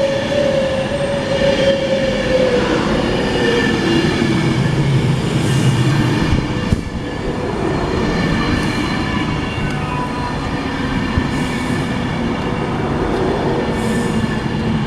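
Class 390 Pendolino electric train running through the station: a steady rumble with several whining tones on top, one of which falls in pitch over the first few seconds.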